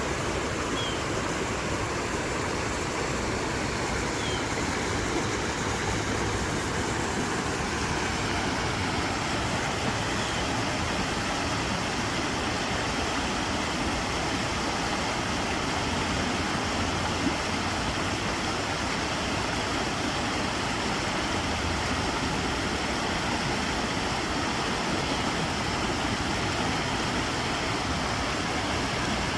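Steady rush of flowing water, an even unbroken noise at constant level.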